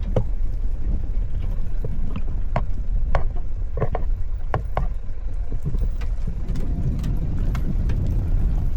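Vehicle driving on a rough road: a steady low rumble, with several sharp knocks and rattles in the first five seconds or so.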